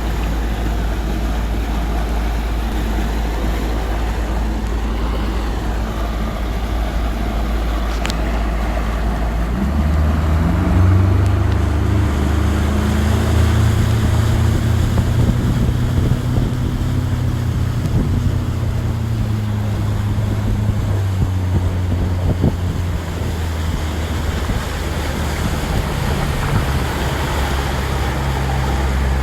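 Motorboat engine running under way, with wind on the microphone. About ten seconds in the engine speeds up to a higher steady pitch, then eases back down a little after twenty seconds.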